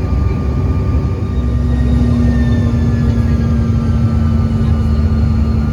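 Airliner engine and cabin noise heard from inside a regional jet's cabin: a loud, steady low rumble, joined about a second in by a steady low hum.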